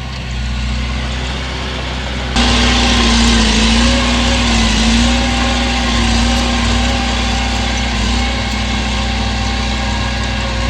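Heavy diesel engine of earthmoving machinery running steadily. About two and a half seconds in it suddenly gets louder and brighter, with a steady tone that wavers a little in pitch.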